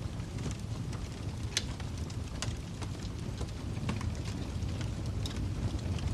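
Wood fire crackling in a fireplace: a steady low rumble of flames with scattered sharp pops and snaps every second or so.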